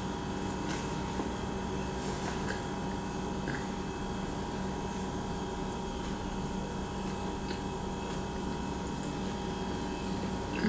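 A person chewing a bite of corn dog with the mouth closed, with a few faint wet mouth clicks in the first few seconds, over a steady background hum.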